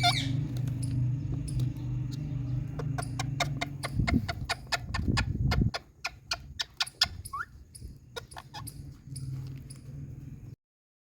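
Indian ringneck parrot giving a couple of short calls among a run of sharp clicks, over a steady low hum that stops a little past halfway. The sound cuts off abruptly shortly before the end.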